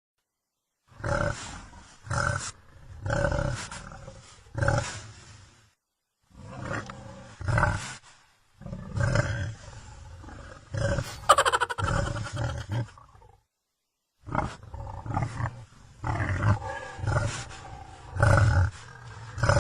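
A recorded tiger's roars and growls played back, not a live animal: a string of about eight calls, each a second or two long, with a few short dead-silent gaps between groups.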